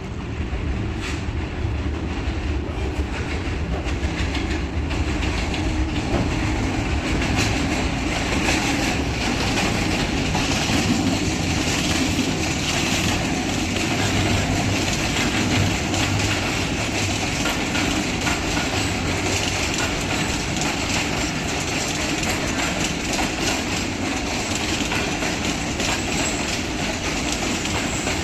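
Passenger train rolling slowly into a station, its wheels clacking steadily over the rail joints. A deep low rumble sits under it for the first few seconds.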